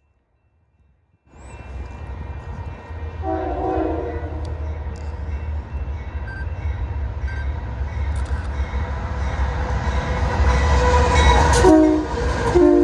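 Union Pacific intermodal freight train approaching, its diesel locomotives making a low rumble that grows louder. The locomotive horn sounds a short chord about three seconds in, then blasts again near the end.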